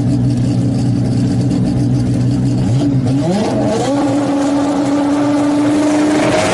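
A car engine running at steady revs, then revved up smoothly about three seconds in and held at a higher, steady pitch.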